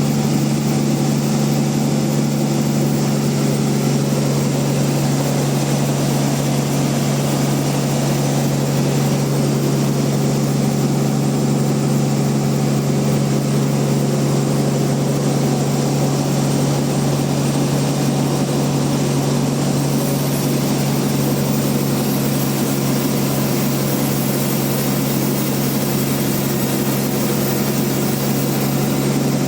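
Large log bandsaw mill running steadily, a constant low machine drone with an even hiss above it.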